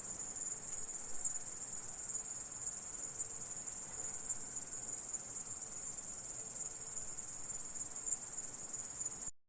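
An insect's stridulation: one continuous, high-pitched shrill trill that stops abruptly near the end.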